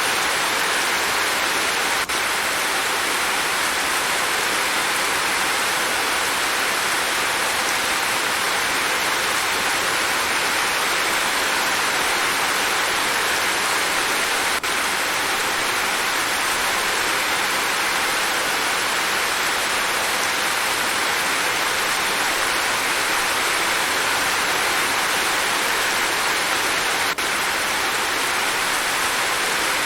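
Rain falling steadily: an even hiss of water, with no separate drops, thunder or voices standing out.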